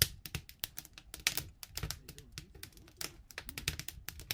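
Campfire crackling: irregular sharp pops and snaps of burning wood, a few louder than the rest, over a low steady rumble of the flames.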